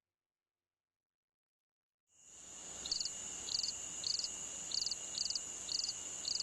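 Near silence for about two seconds, then a cricket-like insect chirping fades in: a steady high-pitched hum with short chirps repeating a little under twice a second.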